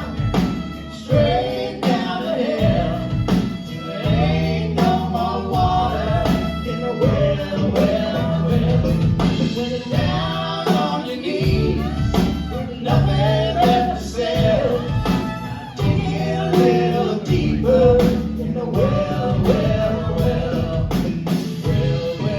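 Live band playing a mid-tempo rock song, with male and female voices singing together over drums keeping a steady beat, guitars, bass and keys.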